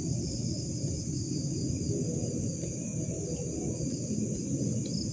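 Night insects, crickets or similar, chirring steadily in a high band over a continuous low rumbling noise.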